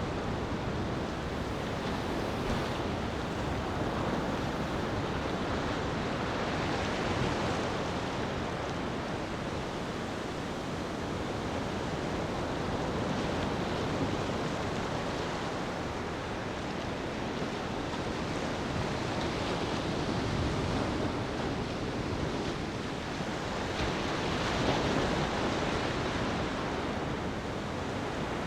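Gentle ocean waves lapping on a beach: a steady wash of surf that swells and eases about every six or seven seconds.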